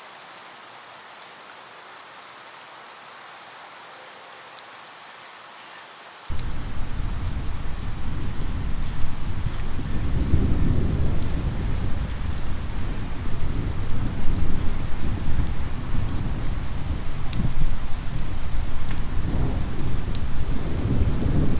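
Steady rain with scattered pattering drops. About six seconds in, a loud, deep rumble of thunder starts abruptly and keeps rolling, swelling now and then, over the rain.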